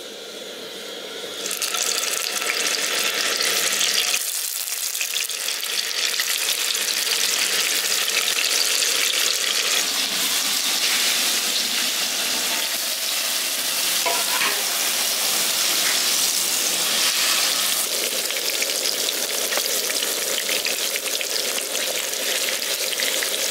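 Paneer cubes sizzling as they fry in a little hot refined oil in a kadai. The sizzle starts suddenly about a second and a half in as the paneer goes into the oil, then holds steady.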